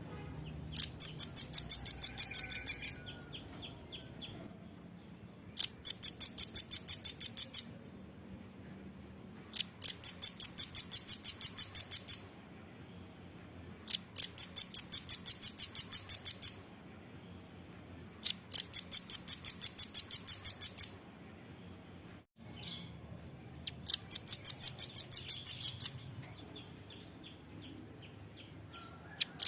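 Velvet-fronted nuthatch (rambatan paruh merah) calling in six bouts of rapid, sharp, high chit notes, each bout about two seconds long with a pause of about two seconds between bouts.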